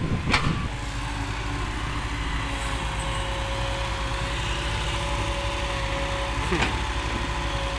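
Six-wheel dump trucks' diesel engines running steadily at idle, with a steady whine joining in a couple of seconds in. A short sharp sound comes near the start and again near the end.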